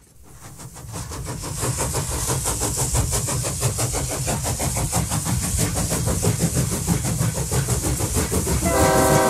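A train running with a fast, even, rhythmic chugging over a low rumble, fading in at the start. Near the end a train whistle sounds a steady chord of several tones.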